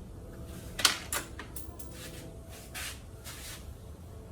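Sharp clicks and short scraping rustles of engine parts being handled by hand, with two clicks about a second in and several brief scrapes after them.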